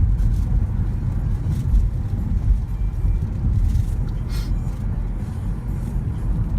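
Steady low rumble of a moving vehicle: engine and road noise with the low fluttering of air, heard from on board while travelling.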